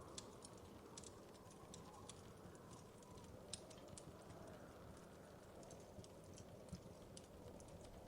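Faint crackling of a wood fire: irregular sharp snaps and pops over a steady low rustle of burning.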